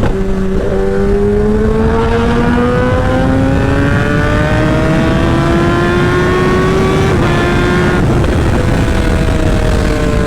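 Sportbike engine with a short SC Project exhaust pulling at highway speed, its note climbing steadily for about seven seconds, then dropping and easing off. Heavy wind rush on the rider's microphone runs underneath.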